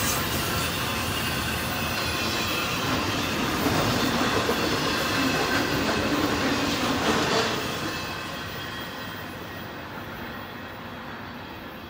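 Intermodal freight train's double-stack container cars rolling past, a steady noise of steel wheels on rail that dies away after about seven to eight seconds as the end of the train passes and recedes.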